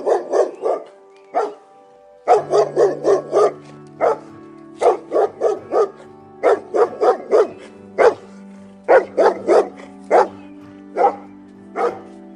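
Dog barking repeatedly in quick runs of several barks, over background music.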